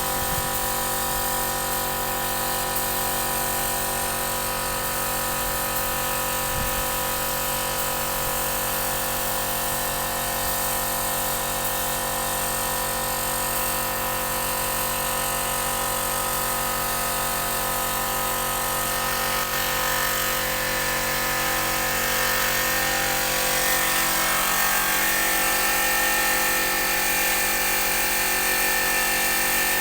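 A power tool's motor running steadily with an even whine; about twenty seconds in its tone shifts and it gets a little louder.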